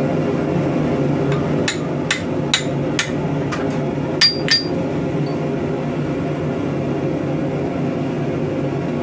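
A blacksmith's hammer striking metal about eight times in quick succession, from about two seconds in to near the five-second mark. The last two blows ring with a clear high tone. A steady low background hum runs throughout.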